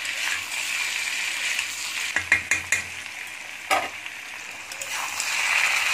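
Sliced potatoes and onions sizzling in hot oil in a pan, a steady hiss, with a metal spatula knocking against the pan four times a little after two seconds in and once more near four seconds.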